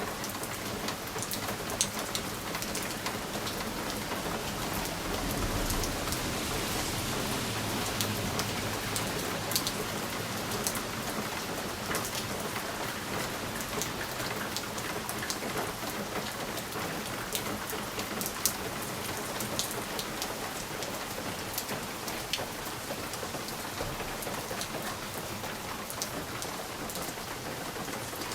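Steady rain pattering on window glass, with many single drops ticking sharply against it. The rain swells slightly about six seconds in, then settles back.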